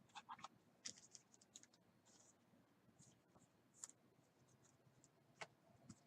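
Faint scattered clicks and scratchy rustles of trading cards being handled and slid over one another. There is a small flurry in the first second and a few single clicks later.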